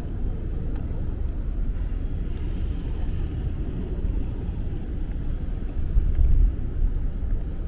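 Low, steady rumble of city street traffic, with a louder surge about six seconds in.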